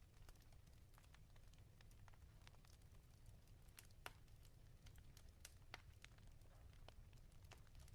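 Wood fire in a fireplace crackling faintly, with scattered small pops and a few sharper snaps, the loudest about four seconds in, over a low steady rumble.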